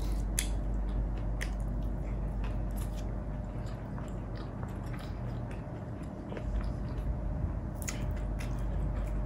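A person chewing food close to the microphone, with wet mouth sounds and scattered sharp clicks, over a steady low background rumble.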